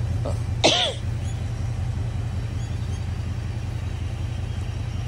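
Ford Mustang engine idling with a steady low rumble as the car backs slowly down the driveway. A person's short, loud cough is heard under a second in.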